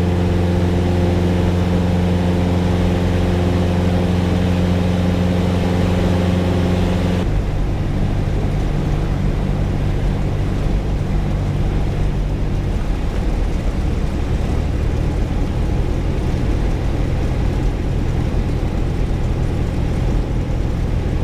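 Cessna's single piston engine and propeller running steadily in flight; about seven seconds in the engine note drops suddenly to a lower, softer drone as power is pulled back on approach, easing down a little further a few seconds later.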